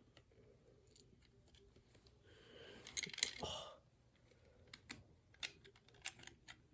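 Parts of a toy's helmet push-button mechanism being handled during reassembly: faint scattered clicks and taps, with a short rattling shuffle about three seconds in.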